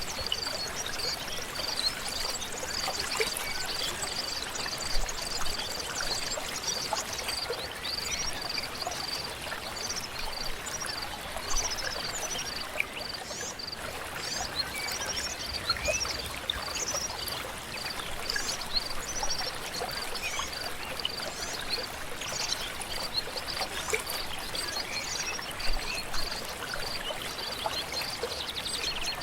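A stream flowing steadily. A high-pitched pip repeats a few times a second throughout, and birds give short, falling chirps, most of them in the middle stretch.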